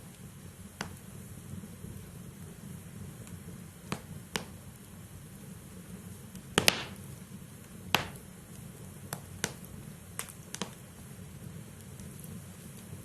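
Wood logs burning in a fireplace: a steady low rush of flame with sharp crackles and pops every second or so. The loudest is a double pop about six and a half seconds in.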